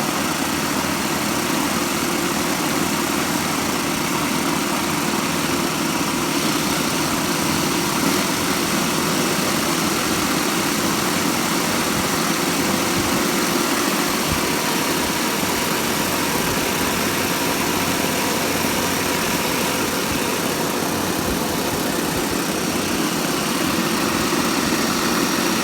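Several Saito 30-class four-stroke glow engines on a large radio-controlled model aircraft running together at a steady speed during an engine test run.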